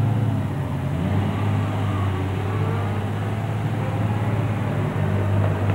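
TVR sports car engines running at low revs, a steady low rumble with small rises and falls in pitch.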